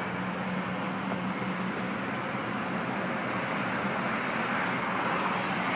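Chevrolet Silverado 1500 pickup running at idle, a steady hum with the even hiss of its air-conditioning blowing, the AC working.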